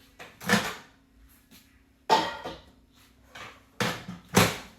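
A handful of sharp clunks and knocks, about five over four seconds, as a microwave door is opened and shut and the dish is set inside.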